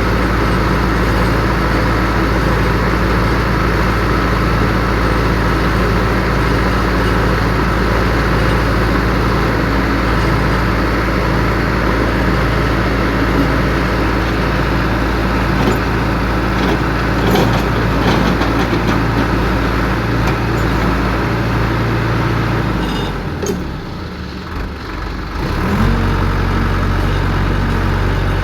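Piling rig's heavy diesel engine running steadily, with a few sharp metallic knocks in the middle. Near the end the engine note drops away for about two seconds, then revs back up with a short rising whine and runs steadily again.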